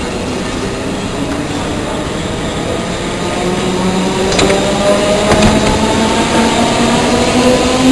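Electric train pulling away, its traction motors whining in several tones that slowly rise in pitch as it gathers speed, growing louder about halfway through. Two sharp clicks come in the middle.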